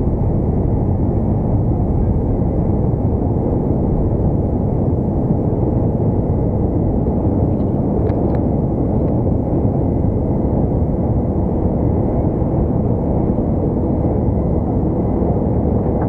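Airbus A330-200 cabin noise in the climb: engines and airflow making a steady, dense low rush that does not change, with a faint thin tone above it and a few light ticks about halfway through.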